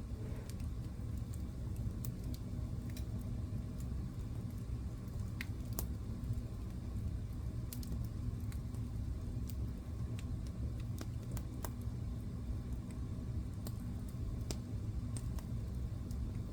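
Wood fire burning in a fireplace: a steady low rumble of the flames with irregular sharp crackles and pops, one or two every second.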